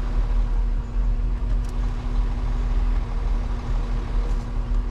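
Tow truck engine idling: a steady low rumble with an even hum that does not change.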